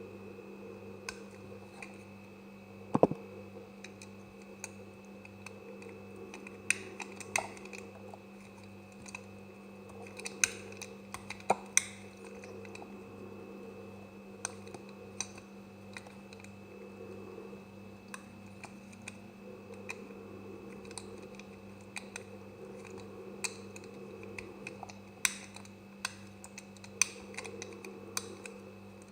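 Knife cutting through semi-dry soap: irregular crisp clicks and crackles as the blade breaks through the firm bars, the sharpest snap about three seconds in. A steady low hum runs underneath.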